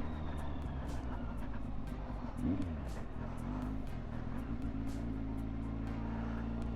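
Kawasaki motorcycle engine running under way. Its revs rise and fall once, briefly, about two and a half seconds in, then it settles to a steady drone that climbs slowly in pitch.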